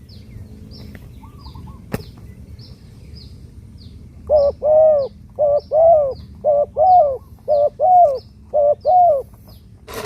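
A spotted dove cooing: a run of about ten arched notes in uneven groups, starting about four seconds in. A faint, high, short chirp repeats about three times a second throughout.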